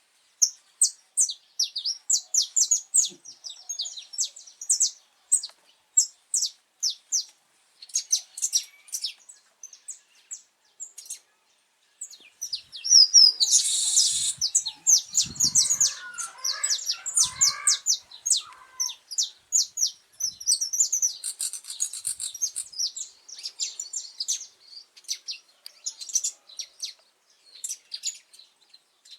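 Saffron finch singing: long runs of rapid, high chirped notes, pausing briefly about eleven seconds in. Near the middle comes a louder, harsher stretch with lower notes and a few low thumps, and then the rapid chirping resumes.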